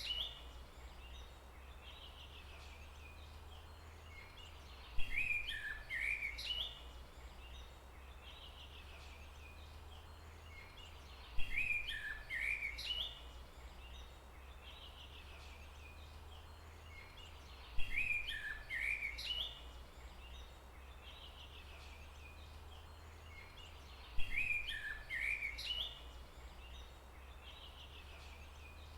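A songbird singing a short phrase of quick, varied notes, the same phrase repeating about every six seconds, four times in all, over a steady low hum and faint forest background.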